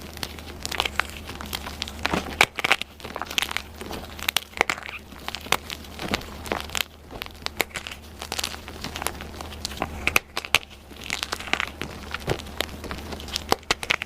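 Dyed gym chalk being crushed and crumbled, a dense run of crunchy crackles and snaps.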